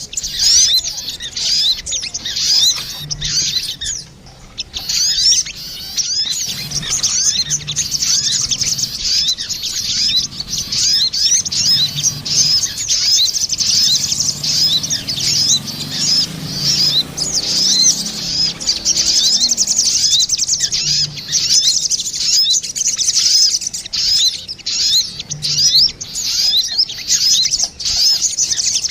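Sogon birds, male and female, calling back and forth in a dense, fast stream of high-pitched chirps and twittering trills. This is lure-call audio used to attract sogon, with a brief lull about four seconds in.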